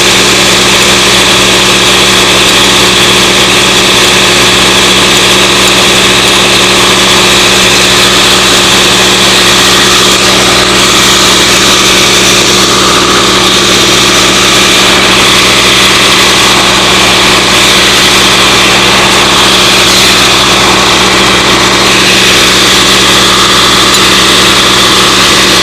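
An engine running steadily at a constant speed, its pitch unchanging throughout.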